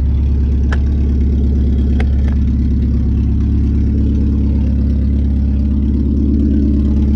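1989 Porsche 944's 2.7-litre four-cylinder engine idling steadily through a straight-piped exhaust, a loud low-pitched drone. Two faint clicks come about one and two seconds in.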